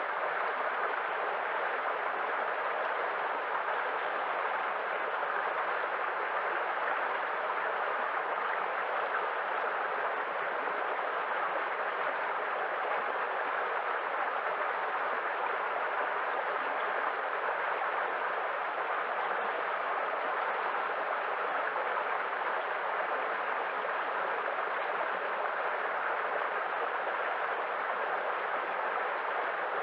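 Steady rushing water, an even wash that holds constant with no separate swells or breaking waves.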